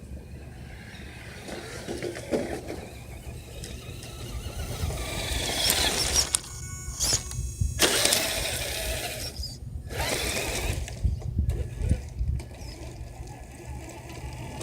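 Radio-controlled car running, its motor and tyres growing louder about five seconds in and running for several seconds with brief drop-outs, over a steady low rumble.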